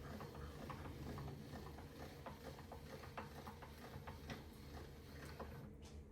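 Light, irregular clicks and taps, several a second, over a low steady hum.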